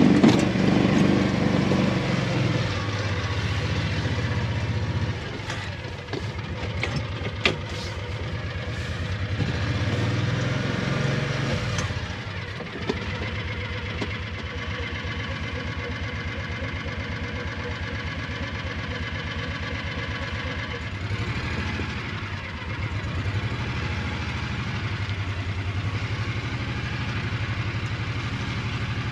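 Small vehicle engine running at low speed as it backs up and drives on, its pace easing and picking up a few times, with a couple of sharp knocks about seven seconds in.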